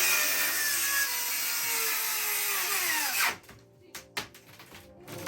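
Handheld power tool running as it cuts into a particle-board wall panel, its pitch slowly sinking, then winding down and stopping about three seconds in. A few light knocks follow.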